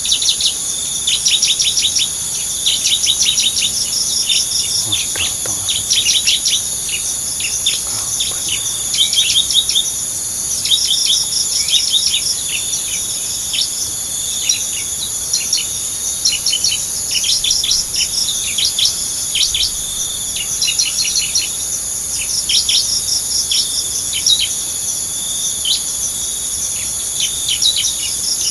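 Bar-winged prinia (ciblek) calls: rapid runs of short, high chirps that come in clusters, over a steady high-pitched insect drone.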